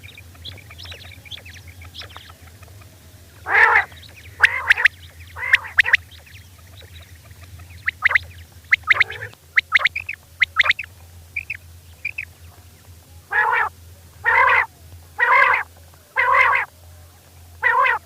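Female common quail calling in short, harsh repeated calls: three about a second apart, then a run of quicker, shorter chirps, then five more spaced about a second apart near the end. A faint steady hum lies under the calls.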